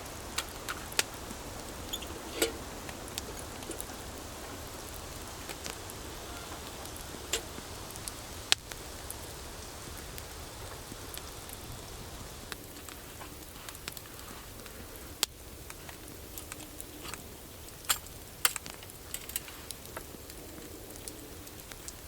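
Campfire crackling: wood burning with a steady hiss and sharp, irregular pops.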